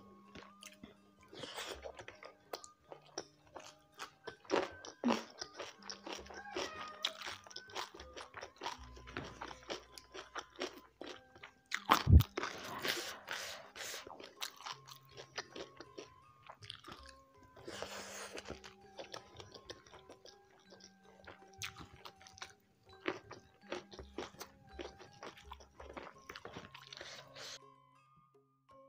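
Close-miked eating: crunchy bites and chewing of raw young jengkol with rice and fried fish, the loudest crunch about twelve seconds in, over soft background music.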